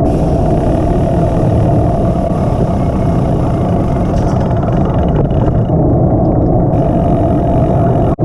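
Loud, steady engine and wind noise of a vehicle on the move.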